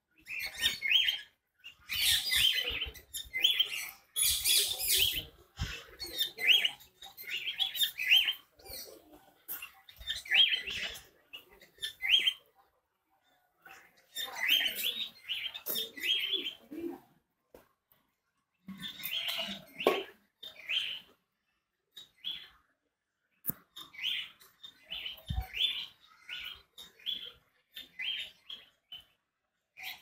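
Small birds chirping in many short, repeated calls, coming in bursts with brief pauses about 13 and 18 seconds in.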